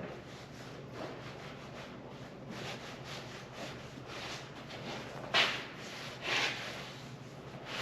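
Leather conditioner cream being rubbed into a leather motorcycle jacket: a string of soft rubbing strokes, with two louder ones a little past the middle.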